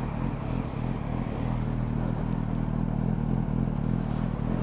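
Motorcycle engine running steadily at low revs, with no revving.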